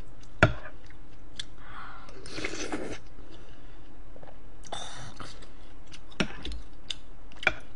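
Close-miked chewing and mouth noises of a person eating spoonfuls of stew and rice, with a few sharp clicks of a spoon against ceramic dishes, the loudest about half a second in.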